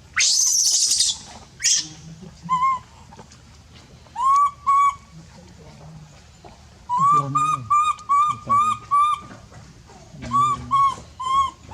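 Baby monkey calling in short, high, chirping peeps that rise at the start. They come in bursts of two to eight about four a second, the longest run a little past the middle. Near the start two loud hissing bursts are heard.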